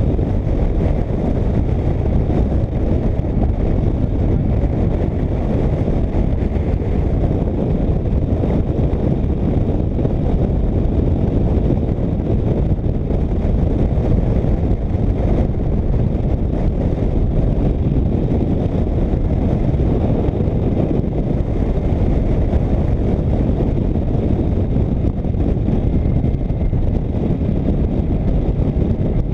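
Motorcycle riding at steady speed: wind rushing over the microphone mixed with engine and road noise, a loud, even rumble that doesn't change.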